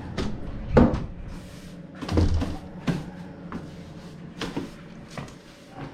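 Broom sweeping a floor: about half a dozen short, irregular swishes and knocks of the bristles and head against the floor and nearby surfaces.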